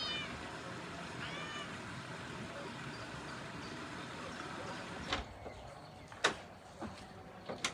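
An animal calls twice, each a short rising-then-falling cry, over a steady rushing background. About five seconds in the background drops away and a few sharp knocks follow.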